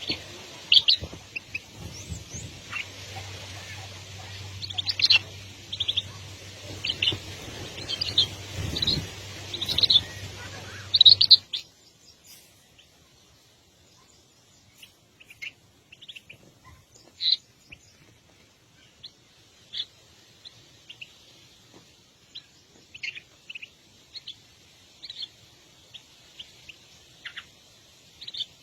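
Birds chirping: short, high chirps repeated irregularly. A low hum and background hiss under them cut off abruptly about eleven seconds in, and the chirps carry on over a quieter background.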